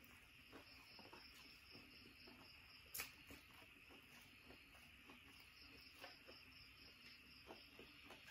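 Faint chewing and wet mouth clicks of someone eating rice and fish by hand, with one sharper click about three seconds in, over a steady high hiss.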